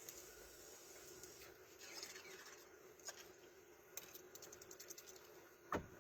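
Near silence with a faint steady hum, a few small clicks, a quick run of light ticks, and a short thump just before the end.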